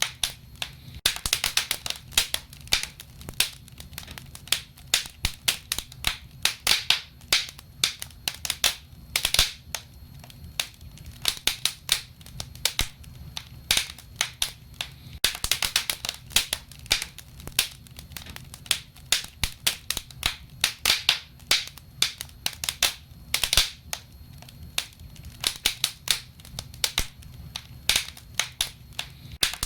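Wood fire crackling in a fireplace: irregular sharp pops and snaps, sometimes several a second, over a low steady rumble of the flames.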